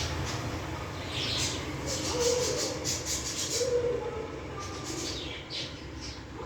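A flock of budgies chirping and chattering, many short high calls overlapping one another.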